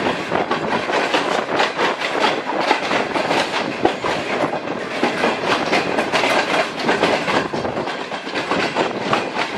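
Pakistan Railways passenger train running at speed, heard from on board through an open window: a steady rumble of wheels on rail with a continuous rapid clatter of wheels over the rail joints.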